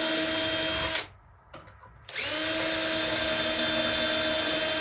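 Power drill running in two steady bursts, each winding up to speed as it starts. The first stops about a second in, and the second starts just after two seconds.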